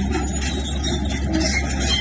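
Bulldozer at work: steady engine noise with scattered high squeals from the steel tracks.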